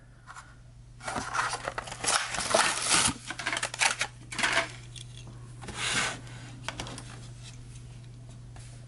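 Crinkling and rustling of a Hot Wheels car's plastic blister packaging being handled, in irregular bursts for about five seconds, over a steady low hum.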